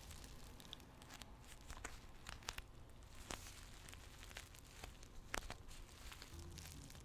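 Tea bags handled close to the microphone: soft, irregular crinkling and crackling of the paper bags.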